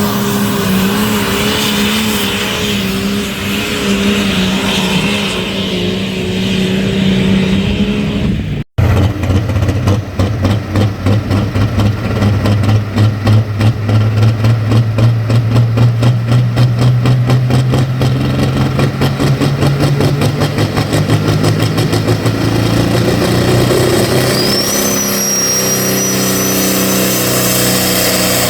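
Engine of a sled-pulling vehicle running loud and steady. After an abrupt cut, a deep engine note pulses under load, and a high whistle rises near the end.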